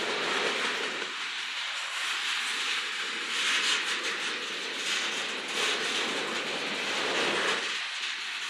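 Freight train cars rolling past: a steady rushing noise of steel wheels on rail, its lower rumble swelling and fading as the cars go by, with a few sharp clicks over the rail joints.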